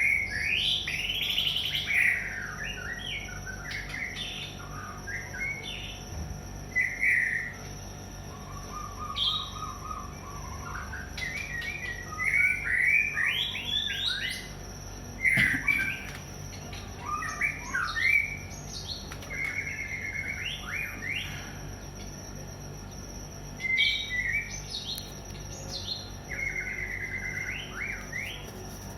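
White-rumped shama (murai batu) singing: varied whistled phrases, pitch slides and quick trills in short bursts with brief pauses between, over a faint steady high tone.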